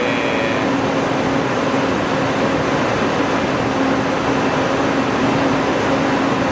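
1998 BMW 540i's 4.4-litre V8 idling steadily with a constant hum.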